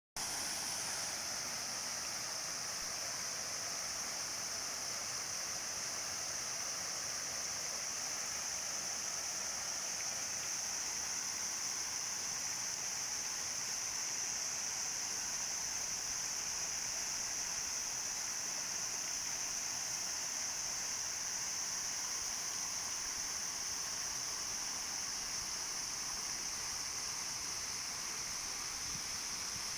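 Artificial rock waterfall splashing into a koi pond: a steady, unbroken rush of falling water.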